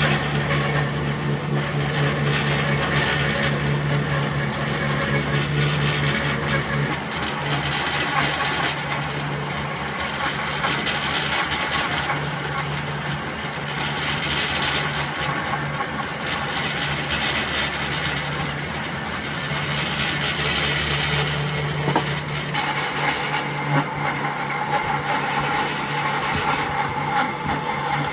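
A power tool running steadily against wood, its motor humming under a rough grinding noise. About three quarters of the way through there is a sharp knock, after which a higher steady whine joins the noise.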